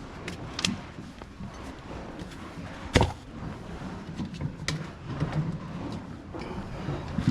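Scattered clicks, rustles and knocks of camping gear being handled, with one loud thump about three seconds in.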